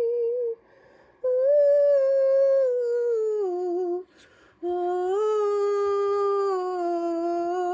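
A woman's mezzo-soprano voice singing long, wordless held notes in three phrases with short breaths between. The second and third phrases step down in pitch near their ends, and no accompaniment is heard.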